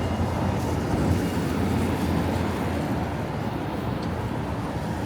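Steady low rumble of city street traffic, a little louder in the first couple of seconds and easing slightly after.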